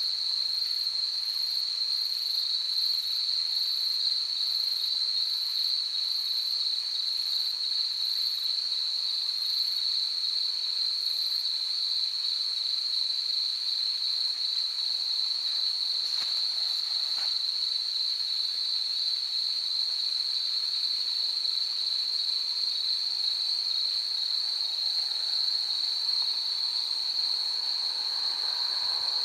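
Insects buzzing in a continuous, steady high-pitched drone, with a fainter, higher pulsing chirp, about one and a half a second, during the first half. A faint rushing noise swells near the end.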